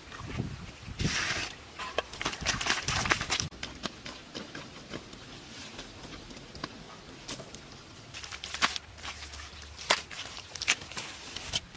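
Irregular clicks and knocks, with short spells of scraping or rustling about a second in and again from about two to three and a half seconds.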